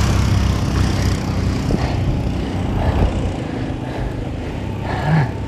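A motor vehicle's engine running close by, a steady low hum that fades over the first few seconds as it moves off.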